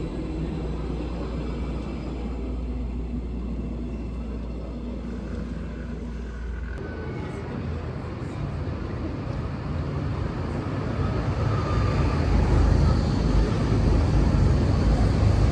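A train approaching along the line: a low rumble that grows louder over the last few seconds, with faint gliding whines above it.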